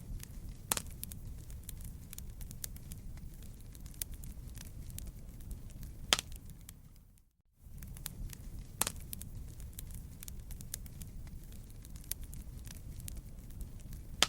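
Wood fire crackling, with many small sharp pops over a steady low rumble of the flames and a few louder snaps. The sound dips out briefly about halfway through, then comes back.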